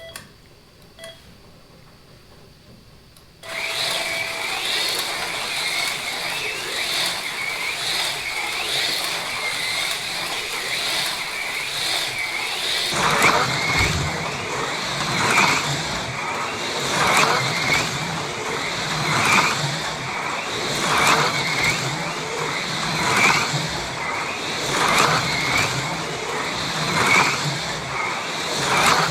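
AFX Mega G+ HO slot cars running laps, their small electric motors whining; the sound starts about three and a half seconds in. From about halfway on, the whine swells roughly every two seconds as a car passes close by.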